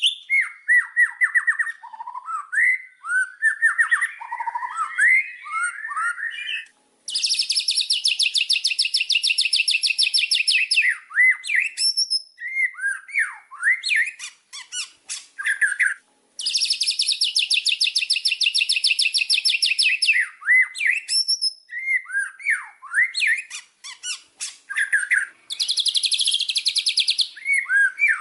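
White-rumped shama (murai batu) singing: a varied string of whistled phrases and sharp clicks. Three times it breaks into a long run of fast repeated notes lasting a few seconds each.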